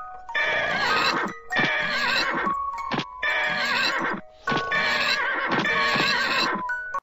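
Four long, raspy, quavering cries, one after another, over music with held notes.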